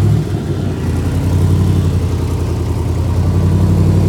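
A car engine idling with a steady low note; it eases off briefly in the first second, then settles into an even idle.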